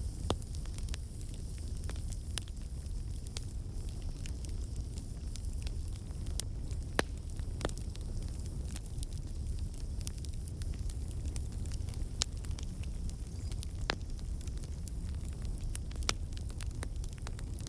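Wood campfire burning: a steady low rumble of flame with irregular sharp pops and crackles from the burning logs.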